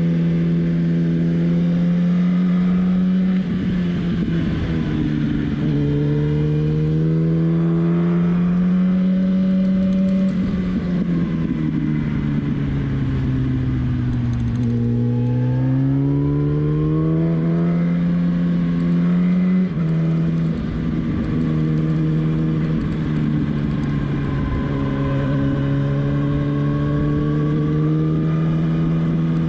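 Inline-four sport motorcycle engine running under way, its pitch easing off and climbing again several times with throttle changes, with a sudden drop in pitch about 20 seconds in as it shifts gear. Steady wind rush under the engine.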